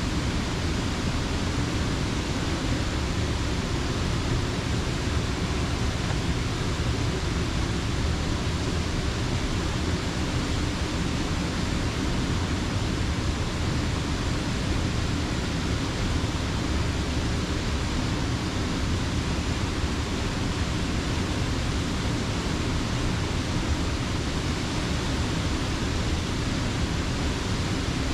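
Creek water rushing steadily, an even full roar with no breaks.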